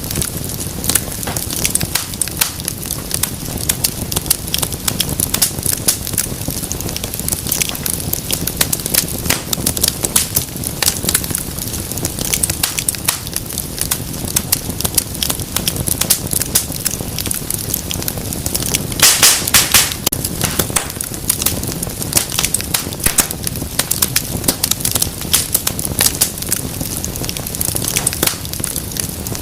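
Wood fire crackling in a fireplace: a steady stream of sharp crackles and pops, with a denser, louder cluster of pops about two thirds of the way through.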